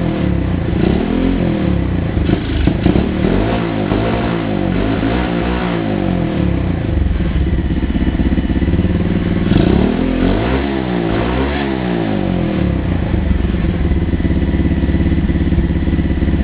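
125cc Lifan single-cylinder four-stroke pit bike engine being revved in repeated blips, its pitch rising and falling several times, with a second run of revs about ten seconds in before it settles to a steady idle near the end.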